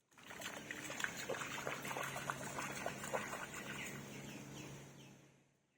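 Heavy rain pattering and dripping, a dense spatter of small drops over a steady low hum. A few short falling chirps come near the end.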